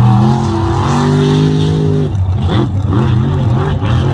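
Mega truck engine running hard at high revs with a steady note, then let off about two seconds in, falling to a lower, rougher running.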